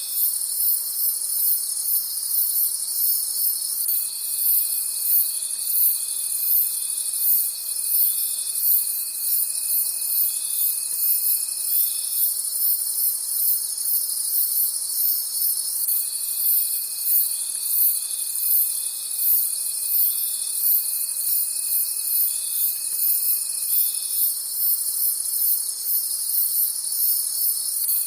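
Crickets chirping at night: several insects calling at once, a loud, evenly pulsing high chirping over a steady trill. A thinner, lower continuous note joins for stretches of about eight seconds, twice.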